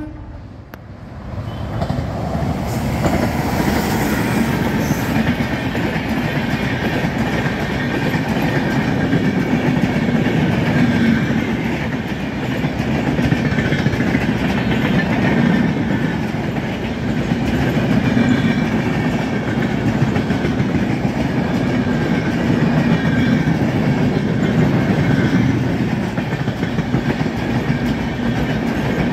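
An express train hauled by an electric locomotive passing close by at high speed. Its coaches' wheels run on the rails in a steady loud roar that builds about two seconds in and then holds as the long train goes by.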